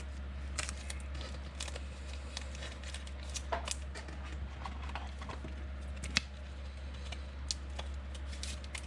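Football trading cards being handled and flipped through by hand: irregular light clicks and slaps of card against card. A steady low hum sits underneath.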